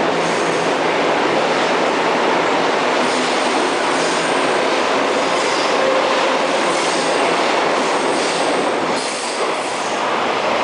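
Seoul Subway Line 3 train running alongside the platform: a loud, steady rumble of steel wheels on rail with recurring clicks and a faint squeal from the wheels.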